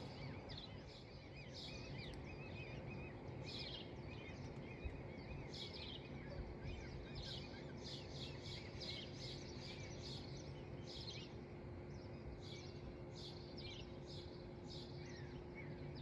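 Small songbirds chirping in quick, short, repeated calls throughout, over a steady low background rumble with a faint steady hum.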